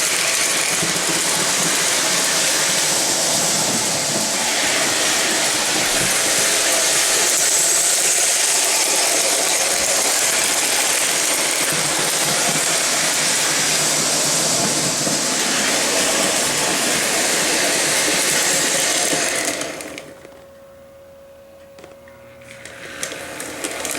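Model train running on its track: a steady mechanical clatter with a hiss. About twenty seconds in it drops away sharply to a faint steady hum, then rises again near the end.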